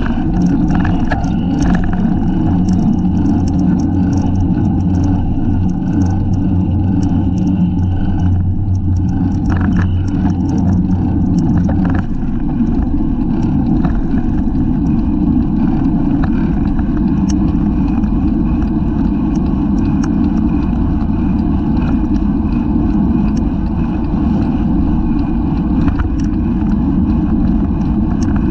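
Wind rushing steadily over the microphone of a camera mounted on a racing bicycle at speed, mixed with road rumble and scattered light rattles and clicks from the bike.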